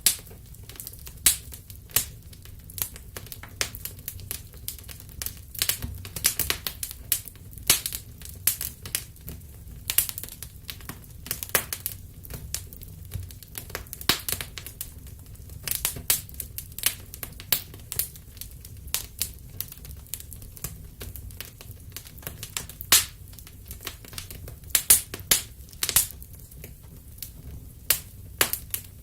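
Wood fire crackling in a fireplace: irregular sharp pops and snaps of burning wood, some much louder than others, over a steady low rumble of the flames.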